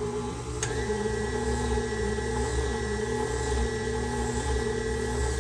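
KitchenAid stand mixer motor running steadily, driving the Spiralizer Plus attachment as it spiral-slices a potato. A click a little over half a second in, after which a higher steady whine joins the hum.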